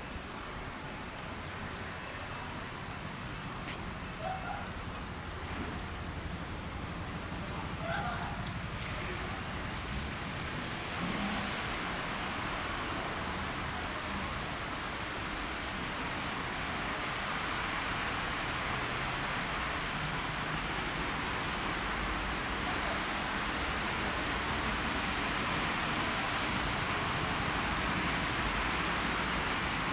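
Approaching train, its rolling noise a steady hiss that grows slowly louder through the second half.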